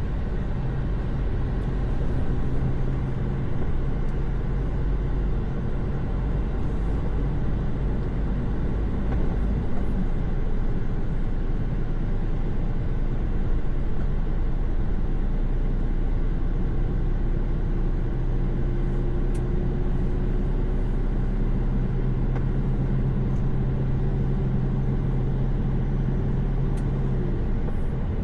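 Truck engine running steadily at highway cruise, heard from inside the cab, over a constant low rumble of road noise. The engine drone is stronger at the start and again through the second half.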